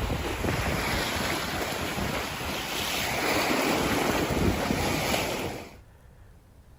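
Wind buffeting the microphone over a rushing wash of waves. It cuts off abruptly near the end, leaving only a faint hiss.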